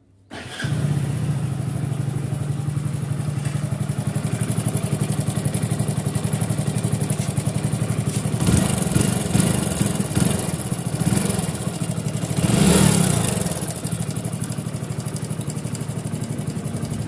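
Hero HF Deluxe BS6 single-cylinder motorcycle engine starting and running, revved briefly twice, with an engine noise that the mechanic puts down to a timing chain fault, a worn chain roller.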